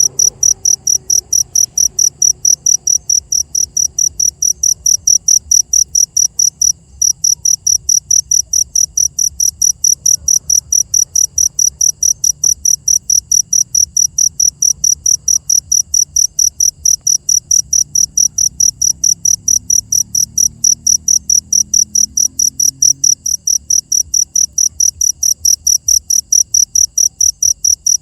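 A cricket chirping steadily, short high-pitched chirps repeating about three times a second, with one brief gap.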